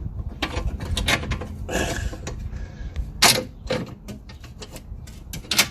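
Scattered metallic clicks and knocks of car parts and a screw being handled and shifted during front hub and brake work, with one sharp knock about three seconds in and another near the end.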